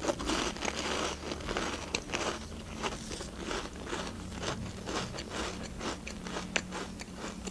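A person chewing a crunchy cheese-filled sandwich cracker close to the microphone: irregular crisp crunches, a couple to a few a second.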